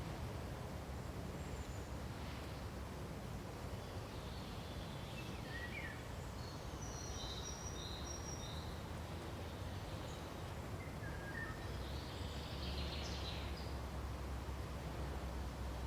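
Pine forest ambience: a steady low rush of wind through the pines, with scattered short bird chirps and whistled notes coming and going above it.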